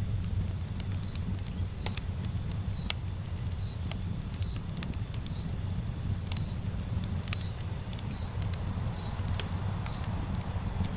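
Campfire burning: a steady low rumble with sharp crackles and pops of the burning wood scattered through. A short high chirp repeats about every two-thirds of a second from about a second in.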